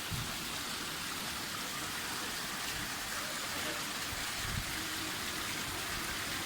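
Small stream running: a steady, even rush of water.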